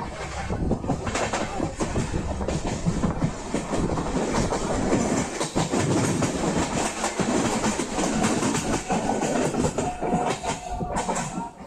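Passenger train running, its wheels clattering over rail joints in a steady dense rattle, heard from on board the coach.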